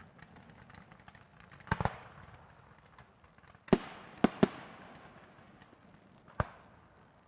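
Aerial firework shells, 4-inch shells, bursting in the sky: about six sharp bangs. There is a close pair near two seconds in, a cluster of three around four seconds and one more about six seconds in, each trailing off in a fading rush of noise.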